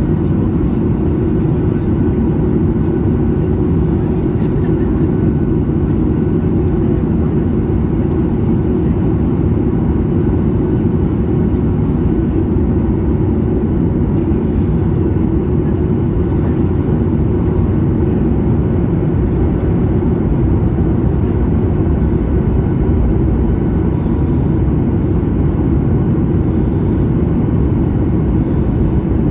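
Steady in-flight cabin noise of a Boeing 737 MAX 8 during descent: an even, low rush of airflow and the CFM LEAP-1B engines, with no changes.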